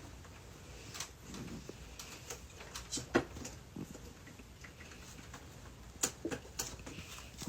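Scattered light clicks and taps, the sharpest about three seconds in and a few more close together near six seconds.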